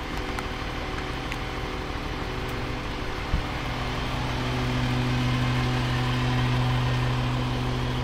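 Garbage packer truck's engine running steadily, getting louder about four seconds in, with a single sharp knock a little over three seconds in.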